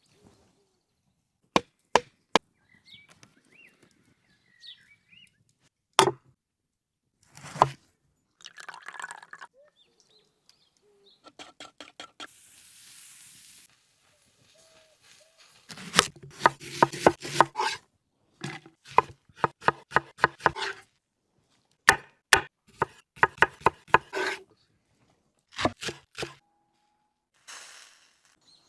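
Food-preparation sounds: single sharp knocks and clicks, several runs of quick, evenly spaced strikes, and a short hiss of liquid about halfway through.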